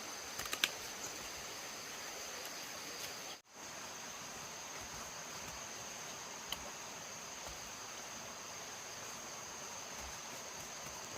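Insects chirring steadily in a high thin tone over an outdoor hiss, with a few faint clicks near the start. The sound cuts out for an instant about a third of the way in.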